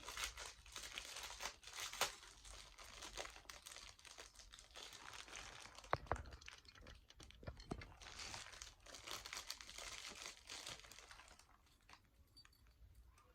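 Packaging crinkling and tearing as it is handled and pulled open by hand, with a couple of sharp clicks, dying away near the end.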